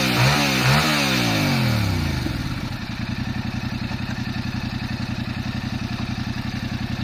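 2022 Yamaha R7's 689 cc parallel-twin engine blipped quickly a couple of times. It then drops back to a steady, evenly pulsing idle about two seconds in.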